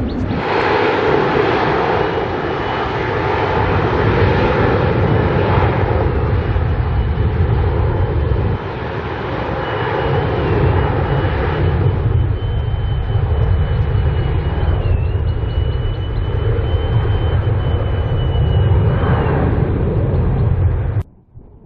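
Boeing 777-300ER's twin GE90-115B turbofans at takeoff thrust: a loud, steady jet roar with a thin high tone held above it, cut off abruptly near the end.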